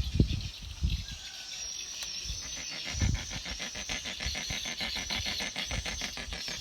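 Insects chirring outdoors: a rapid, even pulsing of about eight to ten beats a second over a steady high whine, with a few low thumps.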